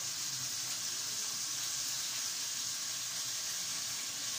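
Steady sizzling hiss from dried caterpillars frying in a saucepan on the stove, with faint crackles.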